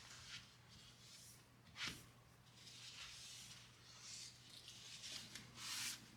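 Faint rustling and brushing sounds of hands at work, a run of soft swishes with a sharper tap about two seconds in, over a low steady hum.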